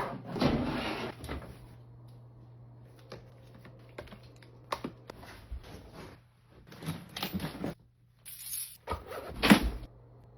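Household items being handled during unpacking: a rustle at the start, scattered light clicks and knocks, and two louder bursts of handling near the end, the loudest a sharp knock.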